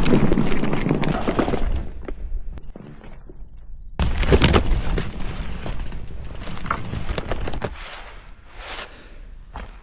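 Snow crunching, a dense crackle that eases off after a second and a half and comes back suddenly about four seconds in, then dies down.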